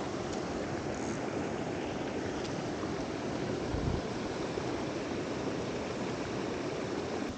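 Mountain stream water rushing steadily. There is a brief low thump just under four seconds in.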